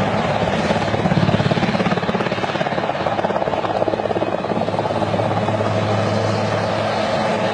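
Helicopter rotor and engine running steadily and loud, a fast chopping pulse over a continuous roar, swelling slightly about a second in.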